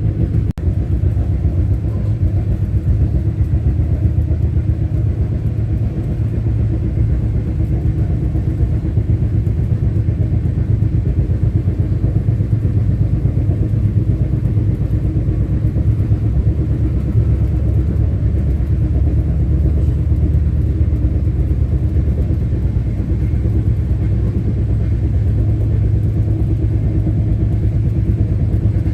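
Express passenger train running at speed, heard from on board: a steady, loud, low rumble of the coach on the rails.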